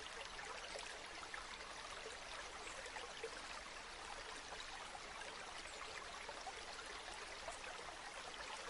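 Flowing river water: a steady, faint rush of small trickles and splashes.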